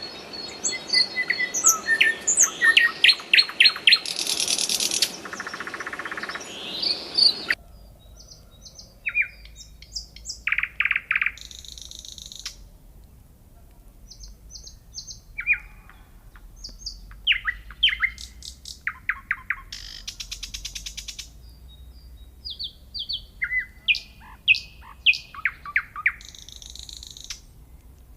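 Nightingale singing: varied phrases of fast repeated notes, rattling trills and clear whistles, with short pauses between phrases. About seven seconds in, the background hiss drops away abruptly and the song continues in a quieter take.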